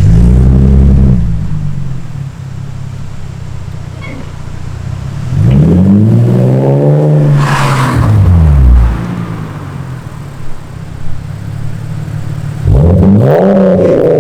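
Straight-piped exhaust of a BMW E46 325Ci's 2.5-litre straight-six, loud, the revs rising and falling three times over a steady drone in between.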